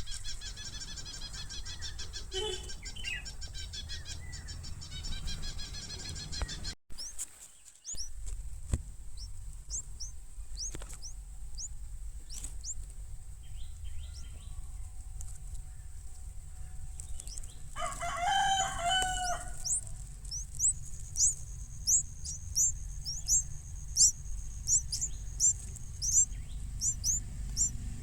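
Small nestlings cheeping: thin, high, downward-sliding chirps repeated one or two a second, growing steady in the latter part. Once, a little before the cheeping settles in, a longer and lower bird call sounds for a second or so, over a low steady rumble.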